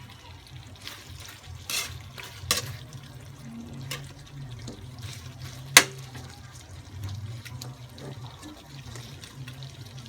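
Mechado stew bubbling as it simmers in the pot, with a few sharp clinks of a utensil against the pot; the loudest clink comes a little before the sixth second.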